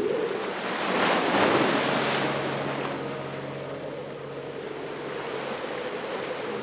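An ocean wave breaking on the shore, swelling about a second in and then washing back out and fading.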